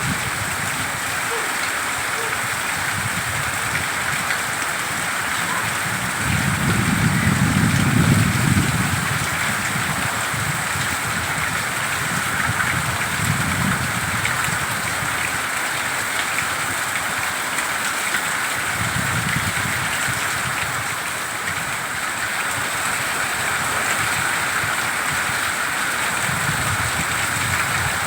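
Heavy rain pouring steadily, with strong wind gusting over it in low rumbling surges every several seconds, the strongest about seven seconds in.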